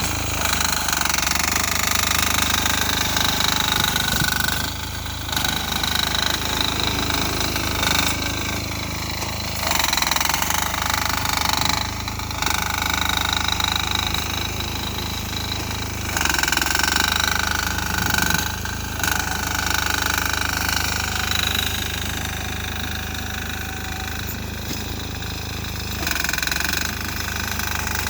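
Sears Suburban garden tractor's 6 hp single-cylinder air-cooled diesel running under load in deep snow. Its speed and level dip and recover several times.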